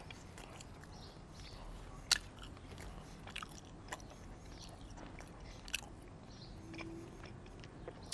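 Close-miked chewing of a mouthful of steak, with a few sharp wet mouth clicks scattered through it, the loudest about two seconds and again nearly six seconds in.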